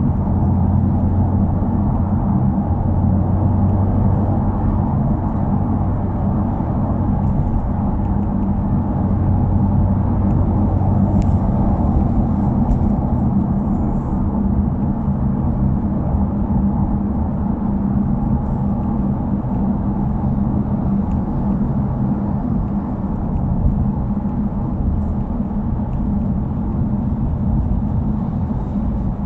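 Subaru WRX's turbocharged flat-four engine and exhaust running steadily while driving at an even pace, a low hum with road noise and no sharp revving. The abnormal noise from the muffler has been fixed, so the exhaust runs without it.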